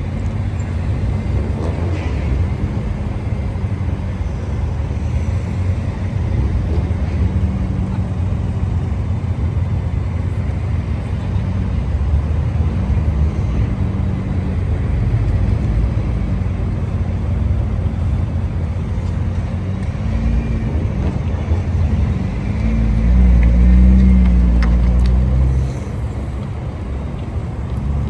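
Car engines running at a car meet, a steady deep rumble. Near the end one engine grows louder for a few seconds, then drops off suddenly.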